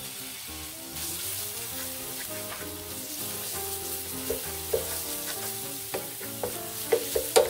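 Sliced red onions and ginger-garlic paste sizzling in hot oil in a nonstick frying pan while being stirred with a wooden spatula. The sizzle rises about a second in, and in the second half the spatula knocks and scrapes against the pan several times.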